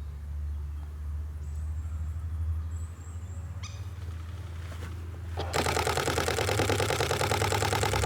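Nikon D500 shutter firing in a rapid continuous burst, loud and close, starting about five and a half seconds in and lasting about three seconds. A shorter rattle of clicks comes a couple of seconds earlier, over a steady low hum.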